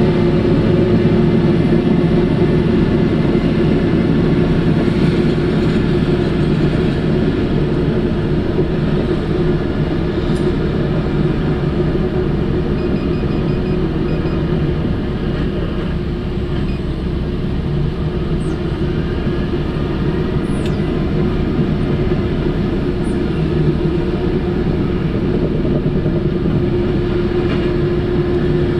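Large diesel engine of heavy mining equipment running steadily under load, a continuous deep drone with a strong steady hum.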